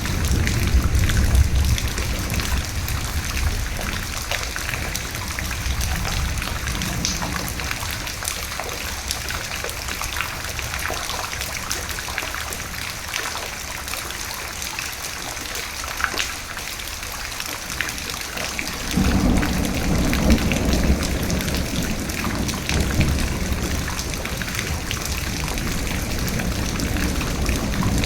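Steady rain pattering, with low rumbling thunder. One roll of thunder dies away in the first couple of seconds, and another begins about two-thirds of the way through and keeps rumbling.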